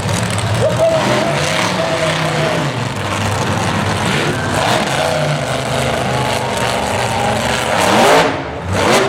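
Monster truck engine running with a low rumble, revving up sharply about eight seconds in.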